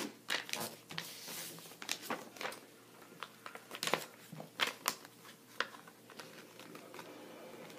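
Sheet of paper being folded and creased by hand: scattered rustles and crisp crinkles, with sharp ticks as the thick paper is pressed flat, thinning out over the last couple of seconds.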